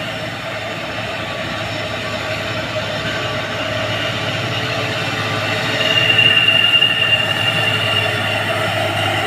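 Heavy diesel truck labouring up a steep climb, its engine growing louder as it comes on; a steady high-pitched whine joins in about six seconds in.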